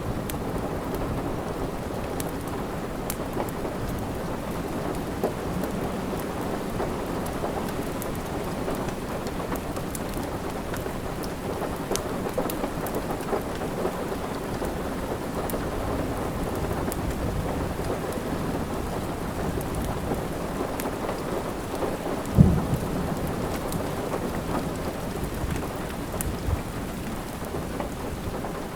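Steady rain with a deep low rumble underneath, and scattered small crackles and pops from a wood fire. One sharp low thump about 22 seconds in.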